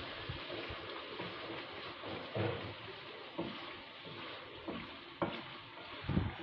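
Chicken and masala sizzling in a kadhai while being stirred with a wooden spatula, with a few short knocks of the spatula against the pan. This is the bhuna stage: the water has cooked off and the chicken is frying in its oil.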